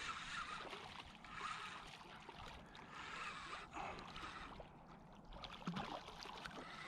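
Faint splashing and trickling water, with small irregular ticks, as a hooked walleye is brought in at the river's edge.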